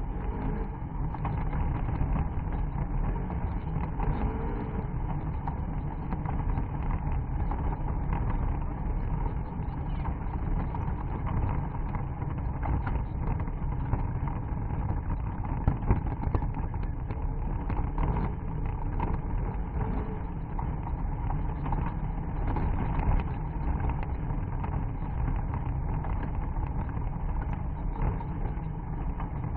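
Off-road car's engine running steadily as it drives over a rough dirt and grass track, with scattered knocks and rattles from the bumps.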